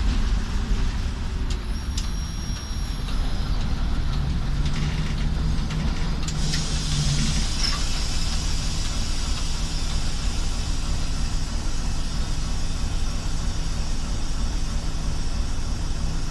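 ChME3 shunting locomotive's six-cylinder diesel engine running steadily, with a few clicks about two seconds in and a hiss that comes up about six and a half seconds in and carries on.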